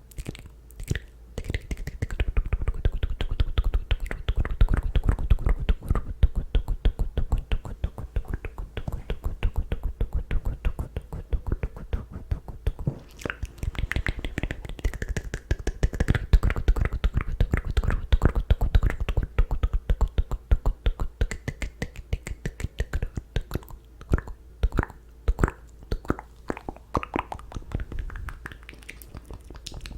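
ASMR mouth sounds: a dense run of wet clicks and pops made with the lips and tongue, many a second, with breathier stretches in the middle.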